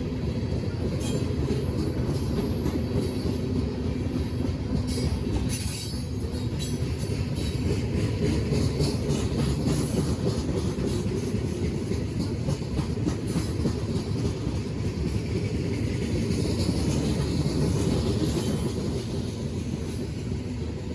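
Train's railcars rolling past with a steady low rumble. The wheels click rapidly over rail joints in the first few seconds, and a faint wheel squeal rises later on.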